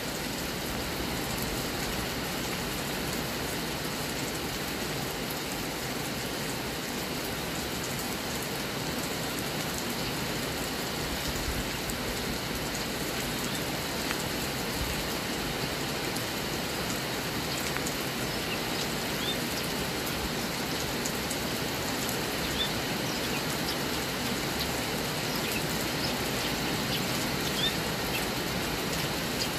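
Steady heavy rain falling on trees and grass, an even unbroken hiss.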